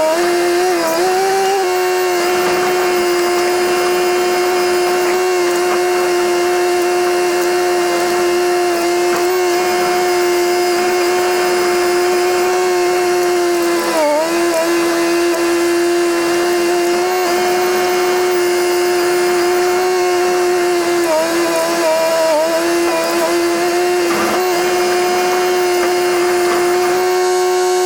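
Komatsu bulldozer's diesel engine running at steady high revs, its pitch sagging briefly a few times as the blade takes load.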